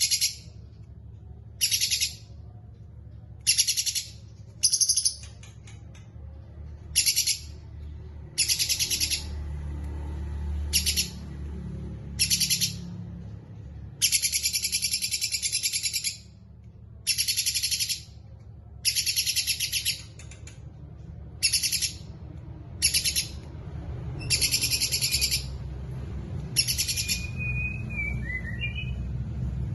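A small songbird singing repeated high, rapid, buzzy trilled phrases, some short and some held for a second or two, with brief pauses between them. Near the end there is a short lower whistle that bends in pitch.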